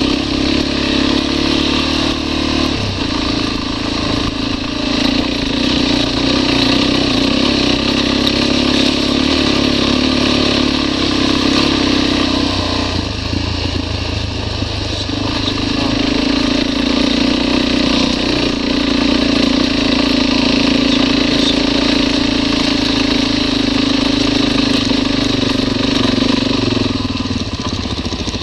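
Motorcycle engine running steadily under way, with wind noise over it. The engine note drops for a few seconds about halfway through, then picks up again.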